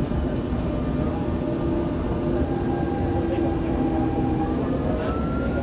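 Dubai Metro train running, heard from inside the carriage: a steady low rumble with electric motor whine, and a high whine rising in pitch near the end as the train gathers speed.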